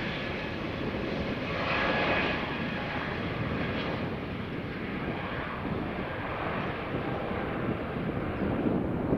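Jet airliner engines at takeoff thrust, a steady loud rush of engine noise that swells briefly about two seconds in.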